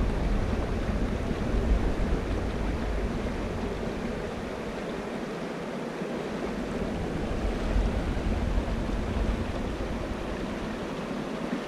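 A river rushing over rocks, a steady, even rushing of water. A low rumble sits under it at first and eases off about halfway through.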